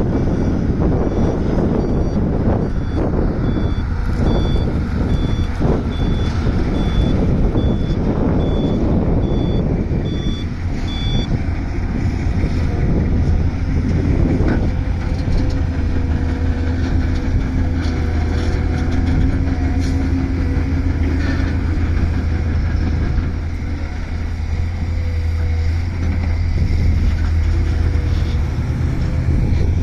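Volvo excavator's diesel engine running hard under load, with a reversing alarm beeping a little under twice a second for roughly the first eleven seconds before it stops; the engine then settles into a steady drone.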